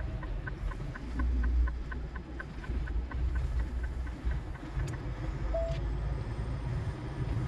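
Kenworth T680 semi truck running, heard from inside the cab as a steady low rumble, with the turn signal clicking about three times a second until about halfway through.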